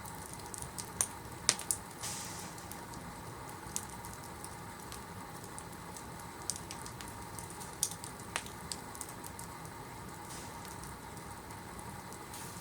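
Fire burning in a fireplace, crackling with scattered sharp pops at uneven intervals over a steady low hiss, with a brief hiss about two seconds in.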